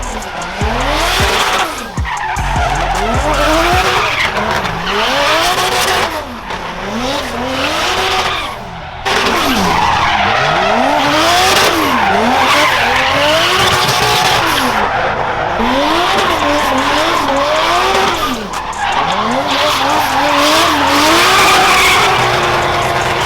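Vehicle doing a burnout: the engine revs up and falls back again and again while the tyres spin and squeal. The revs drop briefly about nine seconds in, then pick up again.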